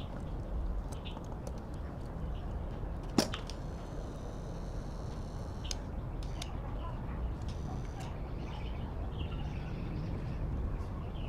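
Scattered sharp clicks and taps over a steady low rumble, with one loud sharp click about three seconds in.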